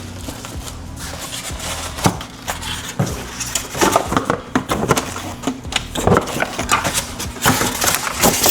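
Cardboard box and packing being handled while unboxing an indoor electric grill: scattered rustles, scrapes and knocks, sparse at first and busier from about halfway through.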